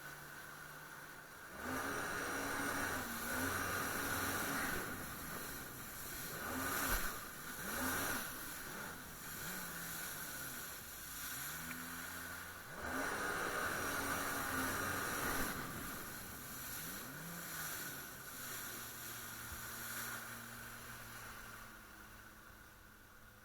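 Jet ski engine running under way, its note rising and falling again and again as the throttle is opened and eased, over a steady rushing noise. It starts up loud about two seconds in and settles to a steadier, quieter drone near the end.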